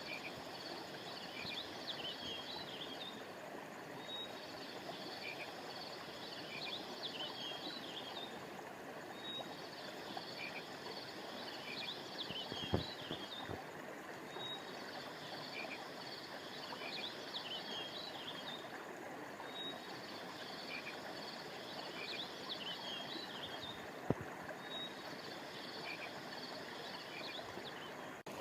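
Steady rush of a flowing river, with a chorus of high chirping calls that repeats about every four seconds. Two sharp clicks, about halfway through and again near the end.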